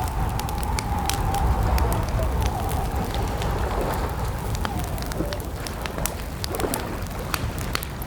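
Campfire crackling: frequent sharp pops and snaps over a low, steady rumble of burning. A faint, slightly wavering tone sits underneath throughout.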